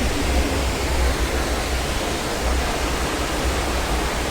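Steady rush of a waterfall: falling water making an even, unbroken noise with a heavy low rumble.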